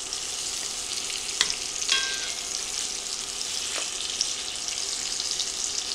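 Seasoned pork chops searing in hot oil and butter in a cast iron skillet: a steady sizzle. A few short clicks and scrapes come from the spatula pressing the chops against the pan, about a second and a half in, at two seconds and near four seconds.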